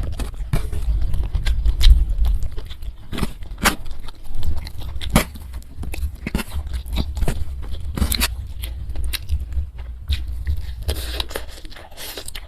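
Close-miked chewing and eating mouth sounds: scattered wet clicks and smacks at irregular intervals over a low rumble.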